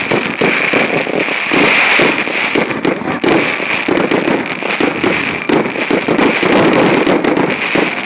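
Festive fireworks display going off continuously: a dense run of rapid pops and bangs, several a second, over a steady crackle.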